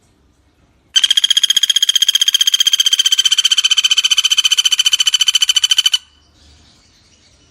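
Pelatuk bawang woodpecker giving one long, even rattling trill of about five seconds, starting about a second in and stopping abruptly. It runs at roughly a dozen pulses a second on a steady high pitch.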